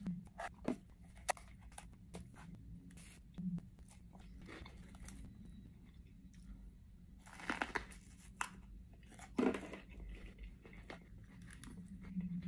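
Close-up mouth sounds of biting and chewing crisp raw peppers: irregular crunches and small wet clicks, with louder crunching bites about halfway through and again shortly after.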